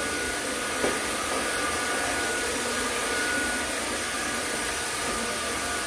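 Vacuum cleaner running steadily with a constant whine, sucking up debris from the floor around a wood stove.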